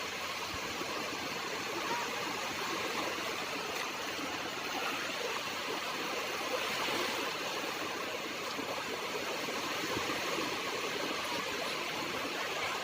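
Sea water rushing as a steady, even hiss, swelling slightly now and then.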